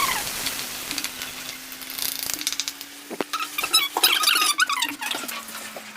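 Onion and tomato paste frying in a pan: a sizzle that is loudest at the start and then eases, with clicks and short squeaks from stirring, over a steady low hum.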